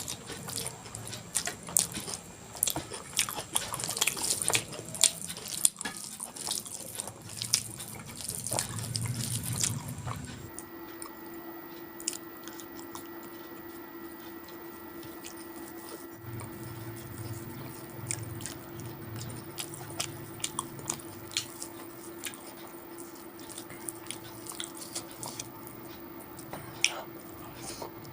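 Close-miked eating sounds: a person chewing and biting a meal of vegetable khichdi, omelette and aloo bharta, with many sharp mouth clicks, busiest in the first ten seconds. A steady low hum comes in about ten seconds in.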